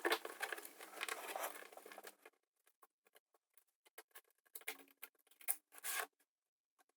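LEGO pieces being pried apart and handled, making small plastic clicks and clatter: a dense run for the first two seconds, then a few scattered clicks.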